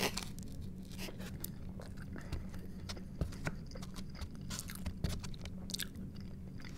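Close-miked eating: a bite into toast right at the start, then chewing with crunching and small mouth clicks. A fork scrapes in a foam takeout container about four seconds in.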